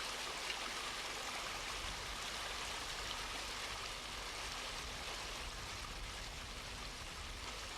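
River water flowing over a weir, a steady rushing hiss with no breaks.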